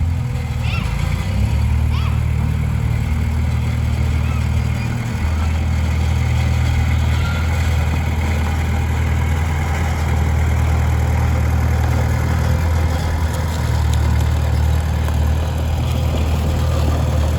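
Heavy diesel machinery engine running steadily with a deep drone, with brief dips in level about five seconds in and again near thirteen seconds. A few faint short chirps sound over it in the first couple of seconds.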